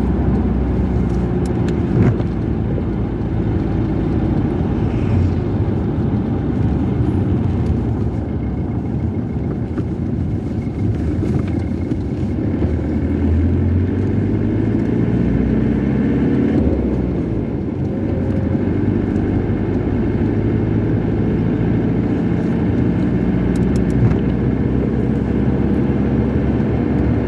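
Car driving at a steady speed, with engine and road noise heard from inside the cabin; the engine note shifts briefly about two-thirds of the way through.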